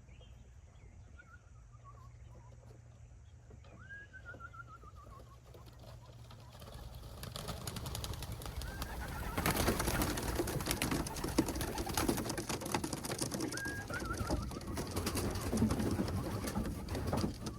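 Young racing pigeons in the loft: a few falling whistled calls at first, then from about seven seconds in a louder stretch of cooing, wing flapping and scuffling as the birds stir.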